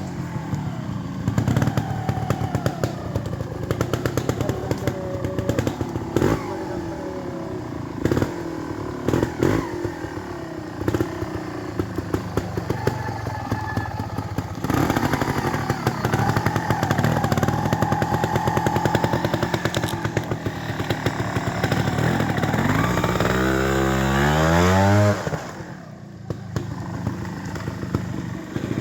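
Trials motorcycle engine working through a section: short, sharp throttle blips with clattering over the first half, then held throttle from about halfway. Near the end the engine revs up sharply in a rising whine, then drops off suddenly.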